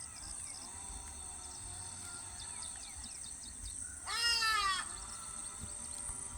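Insects trilling steadily at a high pitch, with fainter animal calls in the background. About four seconds in, one loud, short, wavering animal call is heard.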